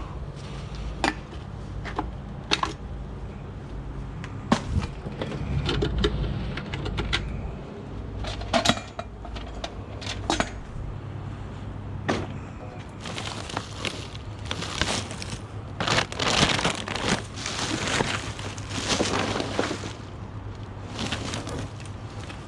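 Rubbish being handled and tidied by hand: scattered knocks and clicks, with a denser stretch of rustling and clatter in the second half, over a steady low hum.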